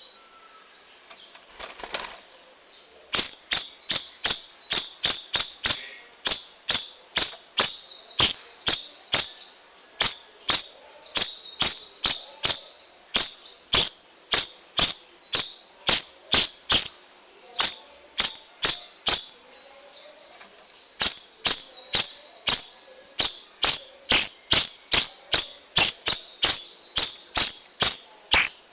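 Cucak rawis bulbul singing: a long run of sharp, high chirping notes repeated about two to three times a second, breaking off briefly near the start before resuming.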